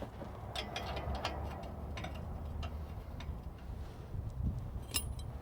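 Light, irregular metallic clicks and taps of hand wrenches being picked through and tried on a bolt, with a sharper click near the end, over a low steady hum.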